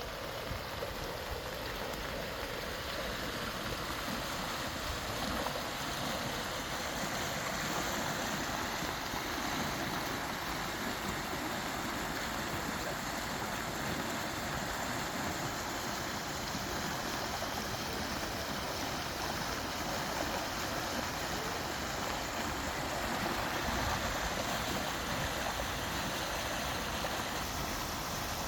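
Floodwater rushing: a steady, even wash of flowing water.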